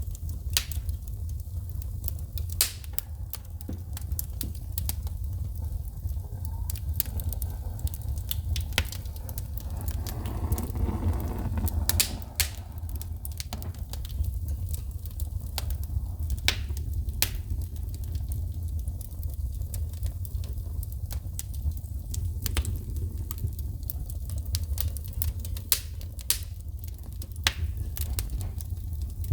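Wood fire in a fireplace crackling, with frequent irregular sharp pops and snaps as the burning logs throw sparks, over a steady low rumble.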